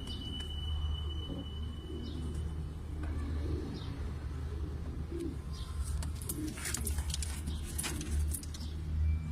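Domestic pigeons cooing repeatedly over a steady low hum. From about six seconds in there is a run of sharp clicks and rustles.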